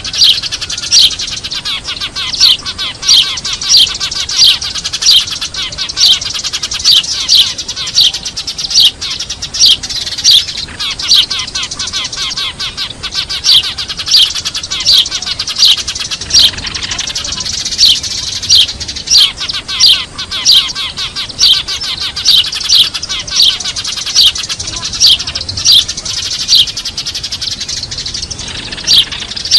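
Eurasian tree sparrows chirping noisily, a dense flock chatter with loud single chirps repeating about once or twice a second: a sparrow lure call.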